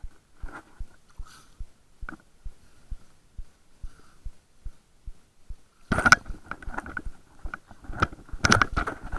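Sea sound heard underwater: a steady run of soft low thumps, about two and a half a second. About six seconds in, a loud crackling, splashing rush of water and bubbles takes over.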